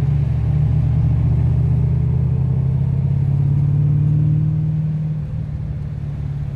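HDT VH Commodore Group 3's V8 engine heard from inside the cabin, running steadily at moderate revs on a parade lap. It eases off slightly about five seconds in.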